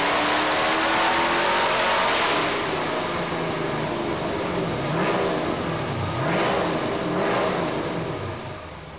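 Twin-turbo 6.6-litre LS2 V8 at full throttle on a chassis dyno, its pitch climbing to the top of the pull; about two seconds in it backs off and the engine note drops and wavers up and down as it runs down, fading near the end.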